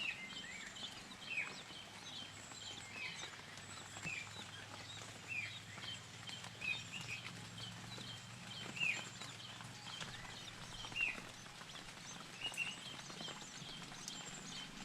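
Faint bird chirping: a short downward-sliding chirp every one to two seconds, with many quicker, higher chirps between them.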